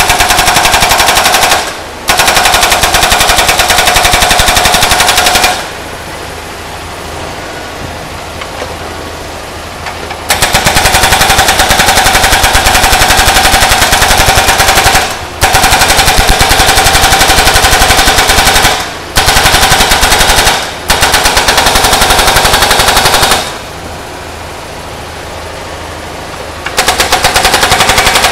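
Hydraulic breaker on a Kubota U50-5S mini excavator hammering an old engine block with rapid, ringing metal-on-metal blows. The blows come in runs of several seconds, broken by short pauses and two longer breaks in which only the excavator's engine is heard running.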